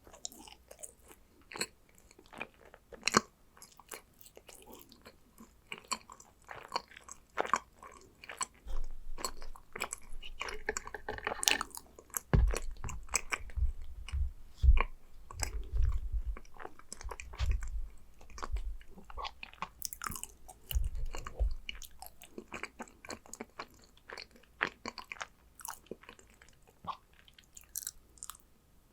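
A person biting and chewing yakgwa (Korean fried honey cookies) close to the microphone, a long string of short crunchy clicks and chewing sounds. There is a run of low thuds in the middle.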